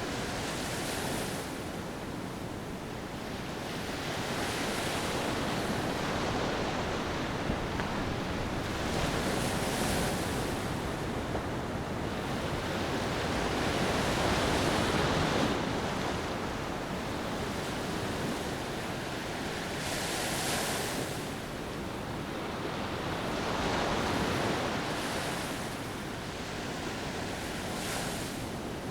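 Ocean waves washing onto a beach, swelling and fading every few seconds over a steady hiss of surf.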